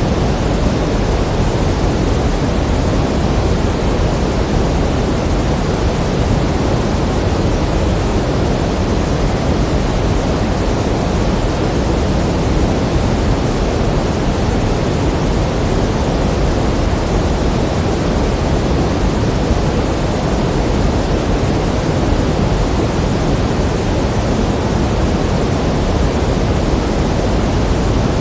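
Pink noise: a steady, even hiss, heavier in the low end and softer in the highs, with no change throughout.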